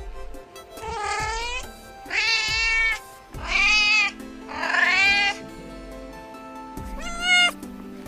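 Cats meowing: five separate meows, each rising then falling in pitch, over background music with steady held notes.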